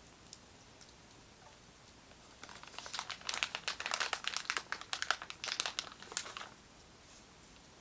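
Plastic packaging crinkling and rustling in a dense run of irregular crackles, starting about two and a half seconds in and stopping about four seconds later.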